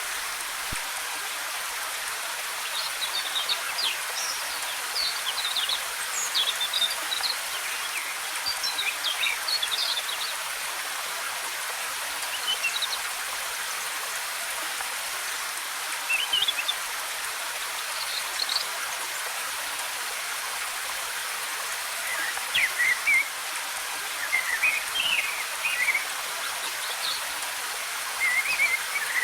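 Waterfall rushing with a steady hiss, while songbirds chirp on and off in short twittering phrases, busiest in the first ten seconds and again over the last seven or so.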